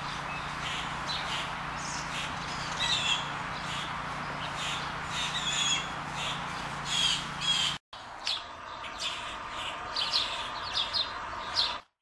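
Backyard birds chirping and calling, short high calls repeating every second or so over a steady low hum. The sound drops out for a moment about eight seconds in, then the calls go on.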